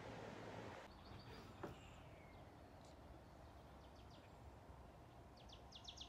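Quiet outdoor ambience with faint, scattered high bird chirps, ending in a quick run of about ten chirps.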